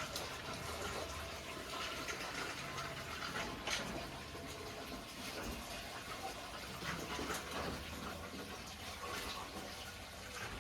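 Water running steadily, with a few brief clicks or splashes over it.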